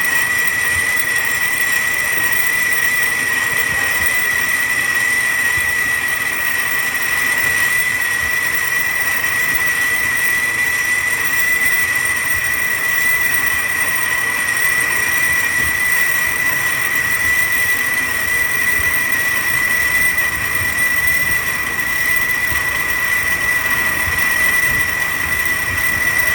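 Engine running steadily with its belt-driven pulleys and AC compressor, a constant high-pitched whine over the running noise.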